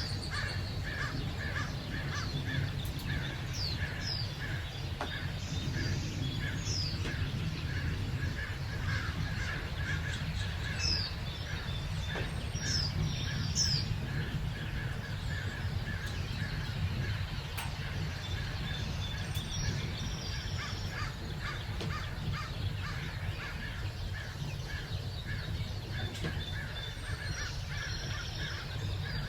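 Wild birds singing and calling: a steady run of short repeated notes, with quick high chirps scattered through. A constant low rumble runs underneath.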